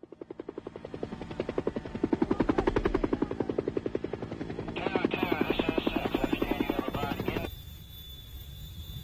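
A rapid, even chopping pulse, about a dozen beats a second. It swells in over the first two seconds and cuts off abruptly about seven and a half seconds in. A wavering higher sound joins it for its last few seconds.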